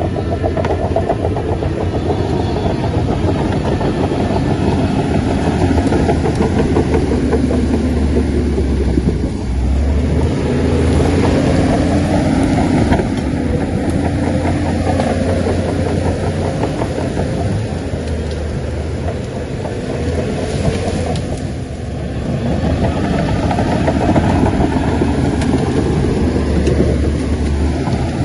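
Heavy diesel engine of a Shantui bulldozer running under load, its note dipping and picking up again twice, about ten seconds in and again about twenty seconds in.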